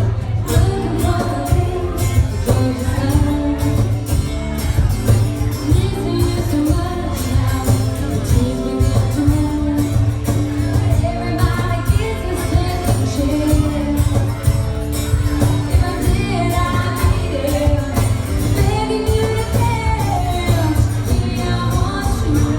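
A country song performed live: a woman singing held, wavering notes over steady instrumental accompaniment with a strong bass.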